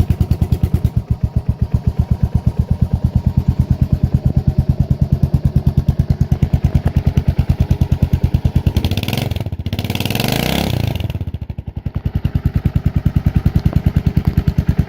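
Suzuki S40 Savage's single-cylinder four-stroke engine idling with a steady, evenly spaced thump while warming up after a cold start. About nine seconds in the throttle is blipped once for a couple of seconds, then the engine drops back to idle.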